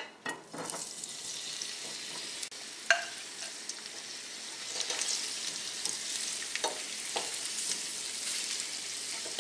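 Spice-coated boiled small potatoes sizzling steadily as they shallow-fry in oil on low heat in a stainless steel frying pan, while a wooden spoon stirs them, knocking lightly against the pan a few times.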